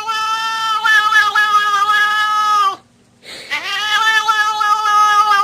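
Domestic cat yowling in long, drawn-out, steady-pitched calls: one ends about three seconds in and a second starts half a second later.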